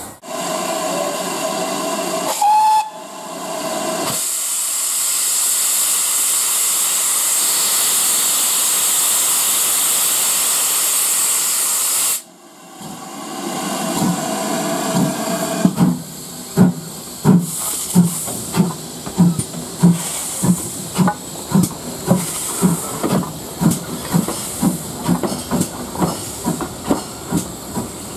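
Steam locomotive getting under way: a short whistle blast about three seconds in, then a loud steady hiss of steam that cuts off suddenly. The exhaust chuffs follow, about one and a half beats a second, growing stronger as it pulls away.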